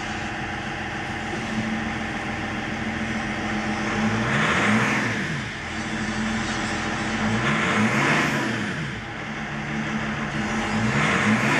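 BMW X5 3.0d's straight-six diesel engine idling in park, revved up and let fall back three times, each blip lasting about a second and a half.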